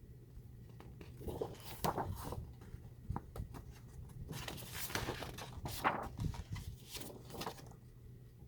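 Sheets of scrapbook paper being handled and turned over, rustling and sliding in a string of short rustles.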